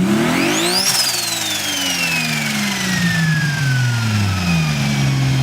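Turbocharged car engine blipped once, with the turbo's whine climbing with the rev. The whine then winds down slowly over several seconds as the engine drops back to a steady idle.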